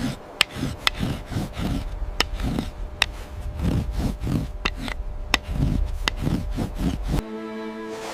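Irregular crunching and clicking, a sharp click every half second or so, over a low steady rumble. A held music chord comes in near the end.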